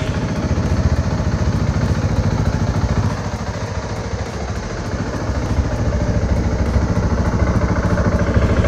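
Beta Zontes T310's single-cylinder engine idling steadily in a warm-up run, heating the oil so it drains fully for an oil change.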